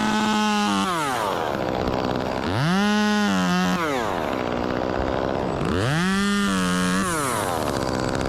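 Two-stroke chainsaw revving three times, each time rising quickly to full throttle, holding about a second, then dropping back to idle.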